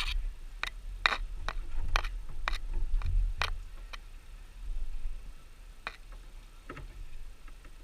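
Irregular sharp clicks and taps, about a dozen, most of them in the first half, over a steady low rumble.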